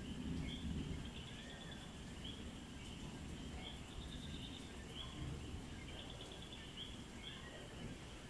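Night chorus of small frogs and insects, many short chirps and brief trills repeating over and over, over a low rumble of distant thunder that is strongest in the first second.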